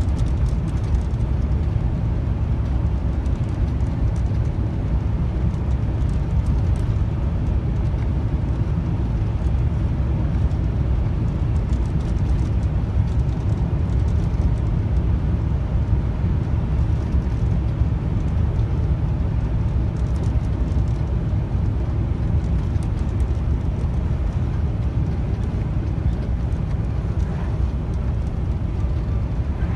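Steady low drone of a truck's engine and tyres heard from inside the cab while cruising at an even speed on a winter highway.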